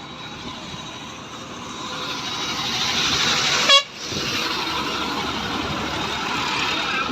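A road vehicle passing close by, its road and engine noise swelling over a couple of seconds, with one very short horn toot near the middle.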